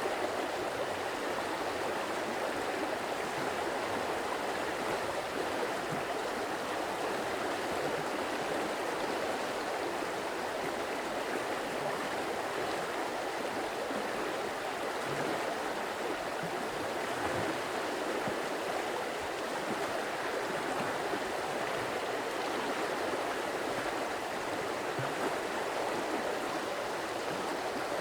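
Running water of a stream, flowing steadily with an even rushing sound that does not change.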